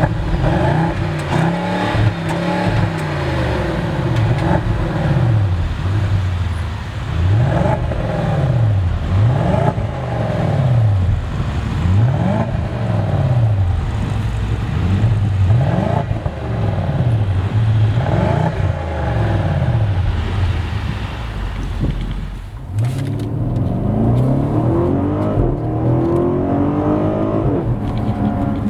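2016 BMW 750i M Sport's twin-turbo 4.4-litre V8 revved again and again, a dozen or so short revs that rise and fall in pitch. Near the end it pulls harder, with longer climbing sweeps in pitch as it accelerates.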